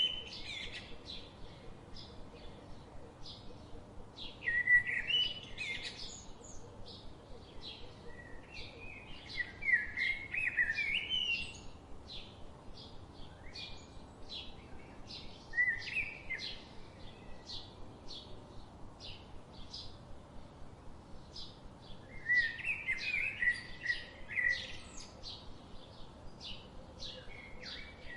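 Birds chirping: a steady run of short, high chirps about two a second, with louder warbling song phrases breaking in every few seconds.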